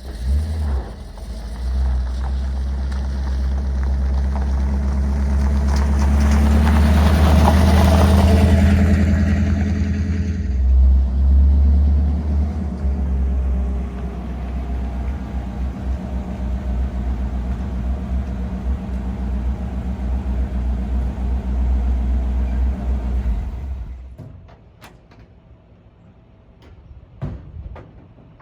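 A 1956 Chevrolet 3200 pickup's engine running with a deep, steady rumble. It swells louder for a few seconds about a quarter of the way in, then settles and cuts off near the end, leaving a few light clicks and knocks.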